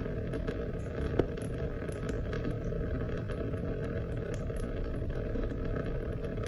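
Steady rain: a low, even rush of water with scattered light drop ticks, and one sharper tick about a second in.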